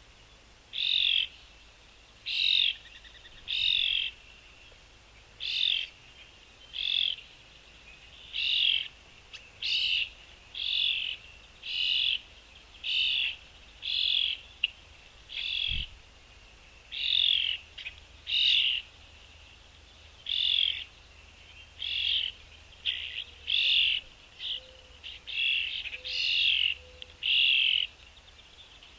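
A small bird giving short chirping calls over and over, about one a second, with little else around.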